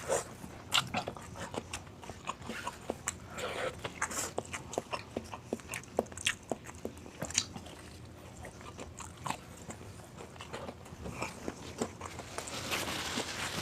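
A person chewing and biting food close to the microphone: irregular short, wet mouth clicks and crunches, several a second, getting louder and denser near the end.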